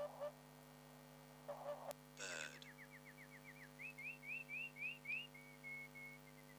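A bird singing a run of quick whistled notes. They fall at first, then rise at about three a second, and end in a few flat notes. Before it, two short clusters of low pulsed calls are heard, with a steady hum underneath.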